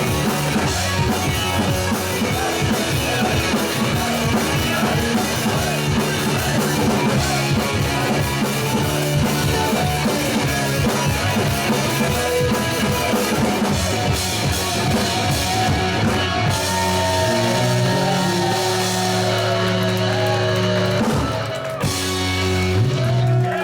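Live rock band playing with drums and electric guitar; toward the end the beat gives way to long held chords, with a short break before a final chord.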